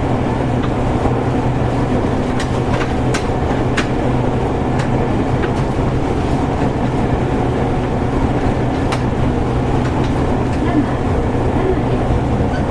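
Seibu 101 series electric train car (MoHa 223) running, heard from inside the car: a steady low hum from its low-pitched traction motors, with irregular sharp clicks of the wheels over rail joints.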